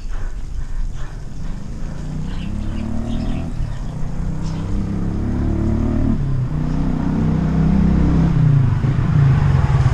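A motor vehicle's engine running close by, its pitch rising and falling and growing louder toward the end.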